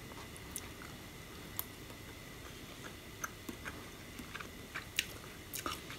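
Quiet chewing of food, with scattered small clicks and ticks that come more often in the second half.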